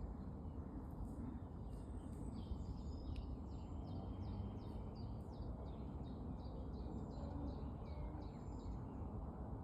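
Birdsong: a bird repeating short high notes, about two to three a second, over a steady low background rumble.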